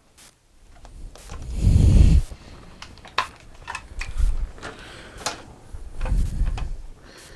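Workpiece and tools being handled on a workbench: two heavier bumps, about two seconds in and again around six seconds, with scattered clicks and knocks between and no power tool running.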